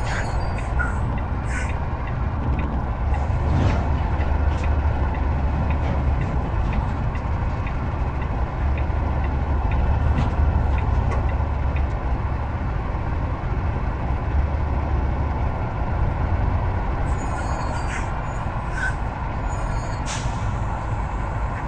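Heavy truck under way: a steady low engine and road rumble with a faint constant whine above it, and a few short clicks and a brief hiss near the end.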